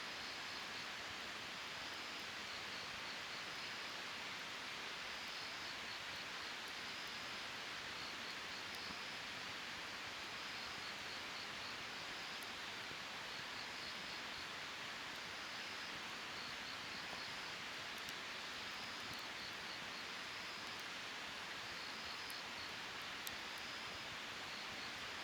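A wood campfire burning with a steady hiss and a few faint pops. High, pulsed chirping repeats every second or two over it, like night insects.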